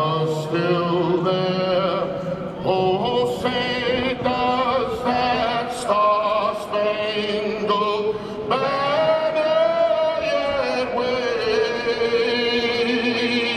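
A singer's voice over the stadium PA, slow phrases with long held, wavering notes, one held for a couple of seconds past the middle: the closing lines of a pre-game anthem.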